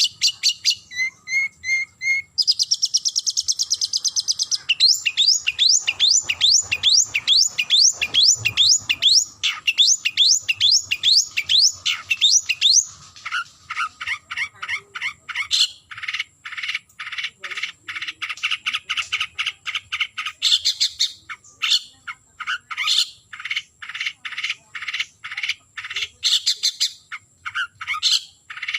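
Long-tailed shrike singing its rivalry call, a rapid, harsh string of repeated notes: a short buzzy passage early on, then a fast run of sharp down-slurred notes, then steadier repeated notes at about two to three a second. This is the call used to challenge and lure a rival shrike.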